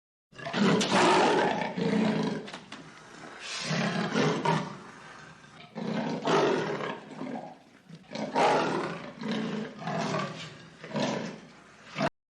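A large wild animal roaring and growling in a series of about six harsh, rasping calls with short pauses between them.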